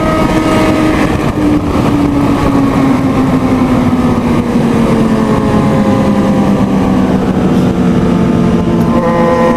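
Motorcycle engine running hard at speed, its pitch sinking slowly for most of the stretch and then jumping up near the end, over a constant rush of wind.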